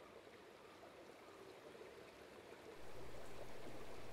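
Faint steady running water, like a small stream trickling. It grows louder, with a low hum underneath, about three seconds in.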